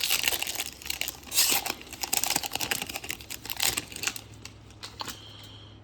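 Trading-card pack wrapper crinkling and cards being handled as a pack is opened: a dense run of quick rustles and clicks that thins out near the end.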